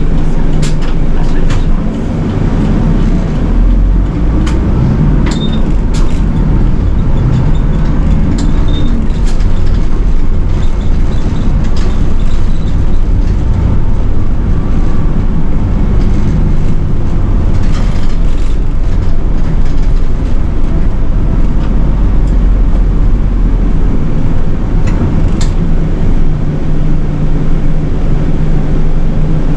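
City bus diesel engine running on the move, heard inside the cabin with steady road and tyre noise, and scattered short clicks and rattles.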